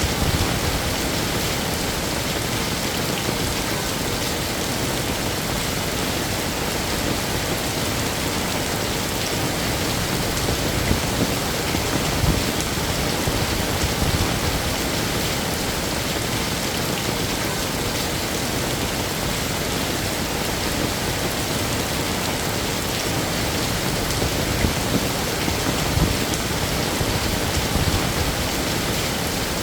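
Heavy rain falling steadily, with a few slightly louder patters of drops now and then.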